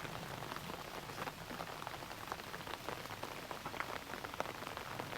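Rain pattering: many small, irregular drop ticks over a steady hiss.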